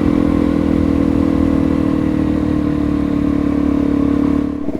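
Suzuki DR-Z400E's single-cylinder four-stroke engine running at a steady pace under way, the throttle backing off near the end so the note drops to a slower, lumpy beat.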